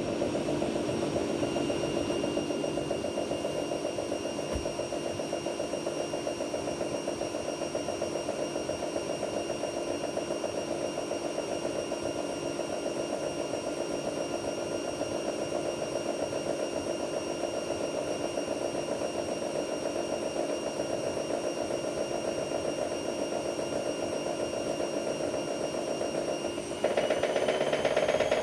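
AEG Lavamat Turbo washer-dryer running mid-cycle, its motor giving a steady whine over the sound of the turning drum. About a second and a half before the end it turns louder and the whine starts to rise in pitch as the drum speeds up.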